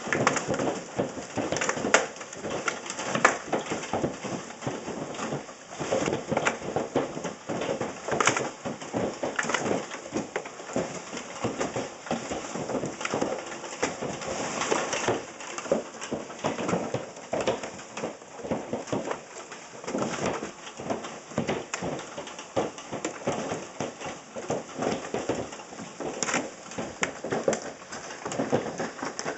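Hailstones striking in a hailstorm: a dense, uneven clatter of many small hits with no let-up, and here and there a louder single strike.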